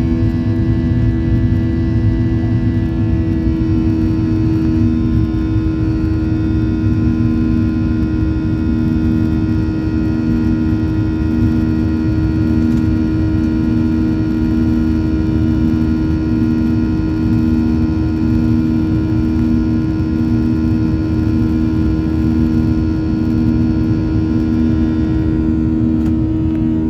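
Jet airliner's engines running steadily at takeoff and climb power, heard as a loud, even cabin roar. A droning hum in it pulses evenly about once a second.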